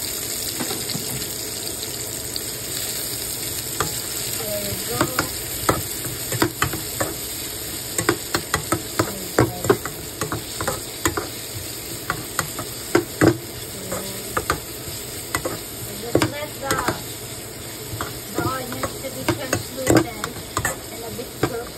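Chopped onions and garlic sizzling in oil in a frying pan, a steady hiss. A spatula scrapes and knocks against the pan as they are stirred, the strokes coming often from about five seconds in.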